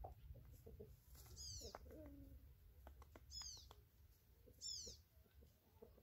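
A bird gives three short, high calls that fall in pitch, spaced about one and a half to two seconds apart, over a faint low rumble.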